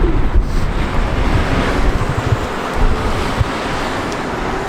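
Wind buffeting the camera's microphone, over a steady rush of road traffic close by.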